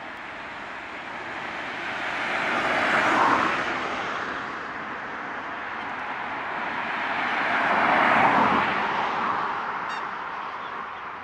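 Two road vehicles passing one after the other, each a rush of tyre and road noise that swells and fades, the first loudest about three seconds in and the second about eight seconds in.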